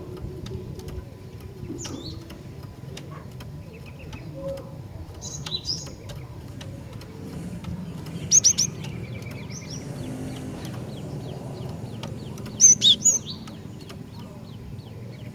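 Female cinereous tit (glatik batu) calling: scattered sharp, high chip notes, with two louder quick runs of three or four notes, about halfway through and near the end, over a low steady hum.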